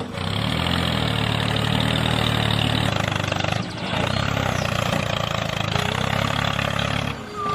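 Tractor-style engine running steadily at idle with a fast even chug. It dips briefly about three and a half seconds in, then runs on and stops just before the end.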